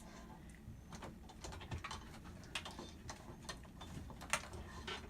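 Scattered small clicks and taps from the parts of a tripod light stand being handled and fitted together, with the sharpest knock about four seconds in.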